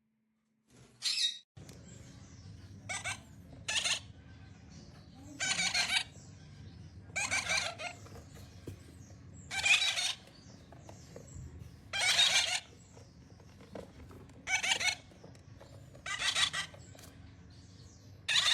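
Parrot squawking over and over: about ten harsh calls, roughly one every two seconds, over a low steady hum.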